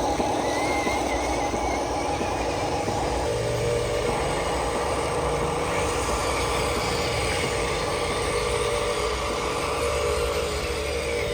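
Radio-controlled model trucks driving, a steady motor drone whose pitch shifts about three seconds in.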